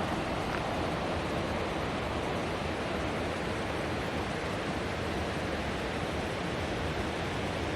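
Steady rush of fast-flowing river water, an even unbroken roar.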